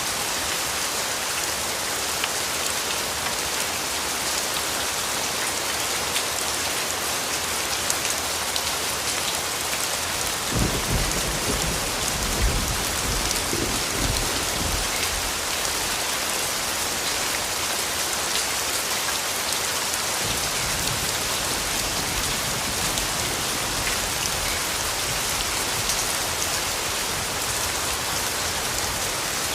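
Steady rainfall pattering. About a third of the way in, a roll of distant thunder rumbles in suddenly, swells for a few seconds and fades, with a fainter low rumble returning later.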